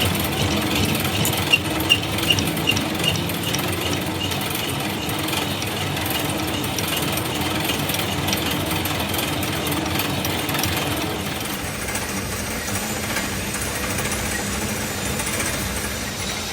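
Metalworking machinery running steadily with a fast, continuous rattling hammer, a short run of sharper clicks about a second in, and a slight change in the sound about twelve seconds in.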